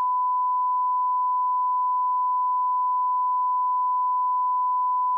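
A steady 1 kHz sine-wave test tone, one pure pitch held at a constant level.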